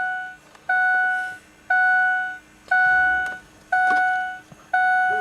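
Truck's dashboard warning chime sounding steadily, about once a second: five clear electronic dings, each ringing out for most of a second.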